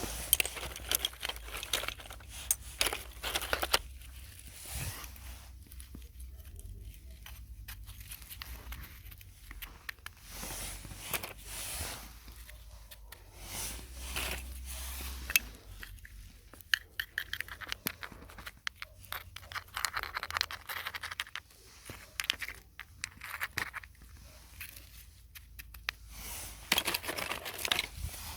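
Close-up rustling, crinkling and scraping handling noises, broken by many scattered sharp clicks.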